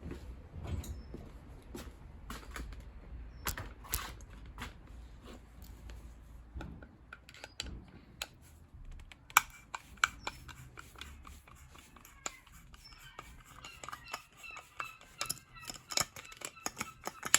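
Clicks, clinks and knocks of hand tools and small metal and plastic parts being handled while a gas combi boiler is taken apart. The sharpest knock comes about nine seconds in, and the clicking grows busier near the end.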